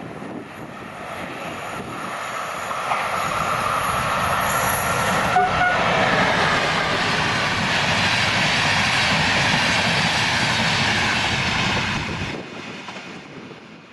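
Electric locomotive-hauled passenger train approaching and passing close by, its wheels and carriages running over the rails. A short horn toot sounds about five seconds in. The sound drops away sharply near the end as the last carriage goes by.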